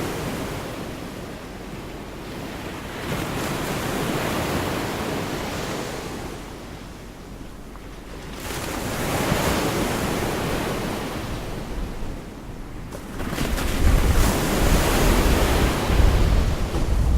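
Gulf of Mexico surf breaking on a beach, the wash swelling and fading every few seconds. Near the end wind buffets the microphone with a low rumble.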